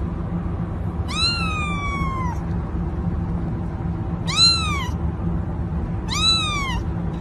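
A cat meowing three times. The first meow is long with a drawn-out falling tail, and the next two are shorter, each rising and then falling in pitch. A steady low hum runs underneath.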